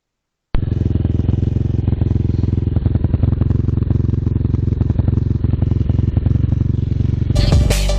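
A vehicle engine running steadily with a rapid, even firing pulse, cutting in suddenly about half a second in. Electronic music with a beat comes in near the end.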